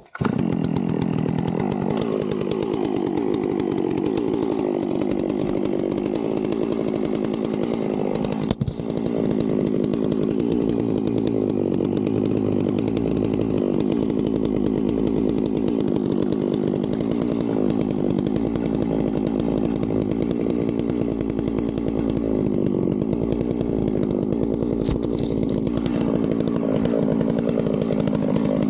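Large two-stroke chainsaw, a Holzfforma clone of the 660, running steadily, with a brief dip in level about eight and a half seconds in.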